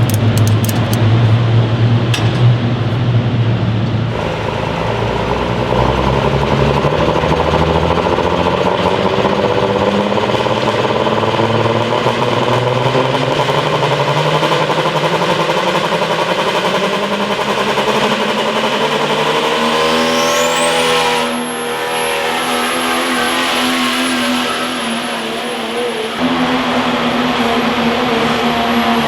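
A pulling vehicle's engine running hard at high revs during a sled pull, its pitch climbing slowly. About two-thirds through, a high-pitched whine rises and then holds steady.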